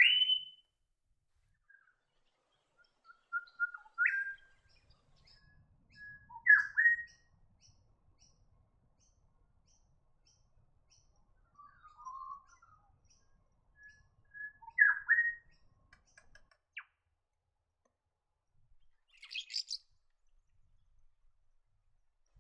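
Grey shrike-thrush calling: clear whistled phrases, several ending in a quick upward sweep, repeated every few seconds with silent gaps between.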